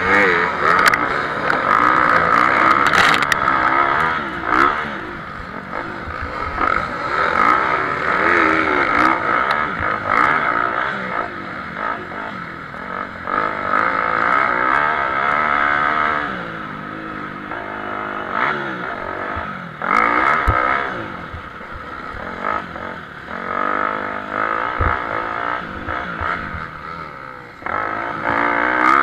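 Several motocross bikes racing around a dirt track, engines revving hard, their pitch rising and falling continually as riders accelerate and shut off.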